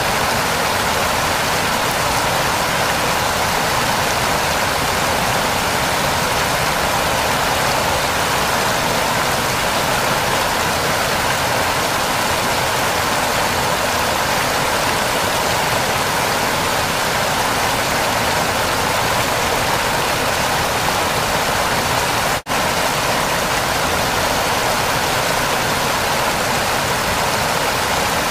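Waterfall rushing steadily, with a split-second gap in the sound near the end.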